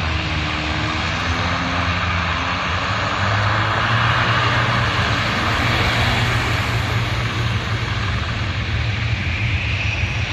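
Airliner's engines running loudly as the plane passes near the airport, a steady rushing noise that swells to its loudest about four to six seconds in and then eases slightly.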